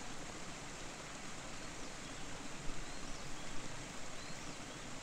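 Steady rush of a waterfall: an even noise of falling water with no distinct events.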